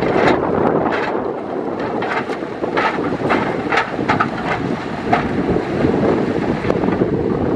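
Heavy earthmoving machinery running, with repeated short metallic clanks and squeaks over the engine rumble. Wind is buffeting the microphone.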